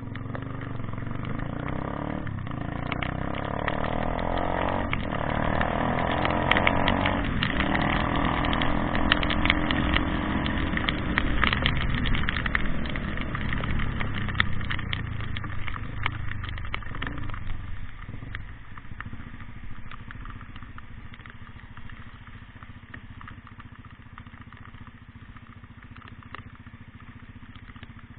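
A motor vehicle's engine running, growing louder over the first several seconds, then fading away in the second half, with sharp crackling clicks while it is loudest.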